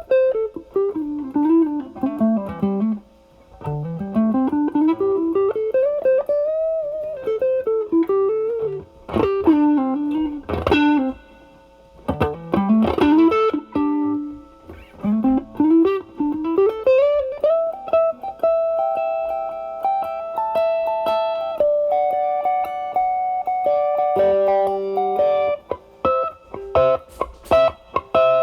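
Overdriven electric guitar: a Stratocaster with single-coil pickups through an Ibanez Tube Screamer Mini, its drive at 9, into a Marshall Valvestate amp on its drive channel. It plays improvised blues lead lines, first single notes bent and slid up and down, then held sustained notes, with a few short strummed stabs near the end.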